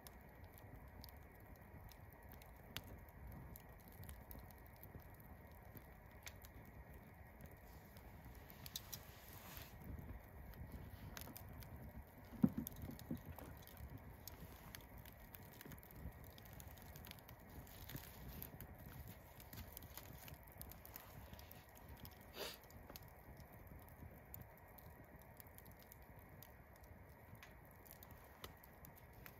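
Campfire burning with faint, irregular crackles and snaps of the wood, one louder pop about twelve seconds in.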